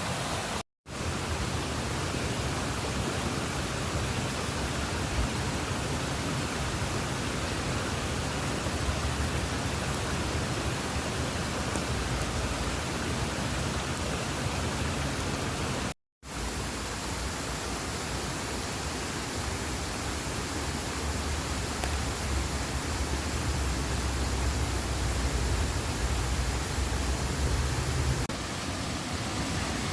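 River water rushing steadily, with a low rumble underneath; the sound drops out twice for a moment.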